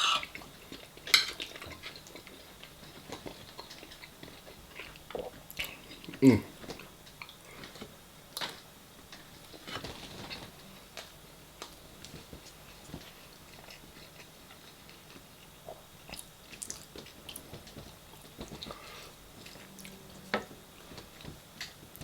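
Close-miked eating: chewing and mouth sounds with scattered clicks of cutlery against a plate. A few sharper, louder clicks stand out about a second in and again around six seconds in.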